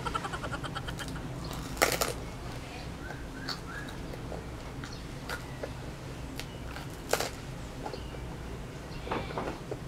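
Chewing and crunching on toasted baguette pizza, with loud crisp crunches of the bread crust about two seconds in and again about seven seconds in, and a smaller run of crunches near the end.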